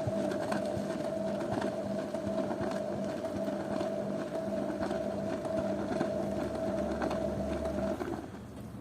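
Zanussi washing machine running, a steady motor tone over a rushing noise with scattered clicks, which cuts out about eight seconds in.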